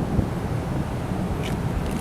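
Yamaha RZ250 fitted with an RZ350 two-stroke parallel-twin engine, running steadily through expansion-chamber exhausts.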